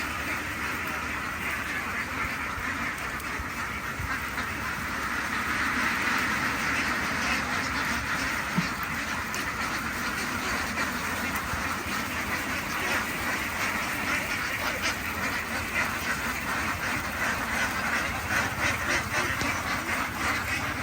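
A large flock of farm ducks quacking all at once in a dense, continuous chorus, busier in the second half, over a low steady rumble.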